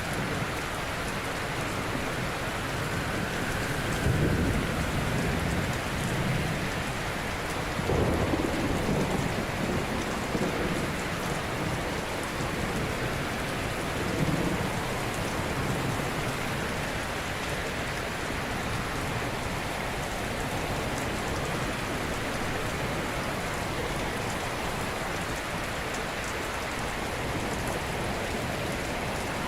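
Ocean surf: a steady wash of waves on the shore, with louder swells as waves break about four, eight and fourteen seconds in.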